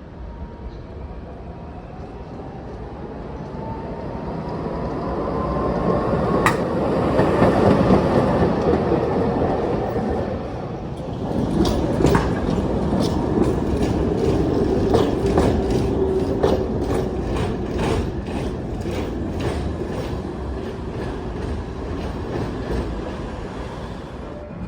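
Tram passing on street track: its electric motors give a rising whine as the sound builds, with a sharp clack about six seconds in. In the second half comes a run of rhythmic clickety-clack as the wheels cross the track joints.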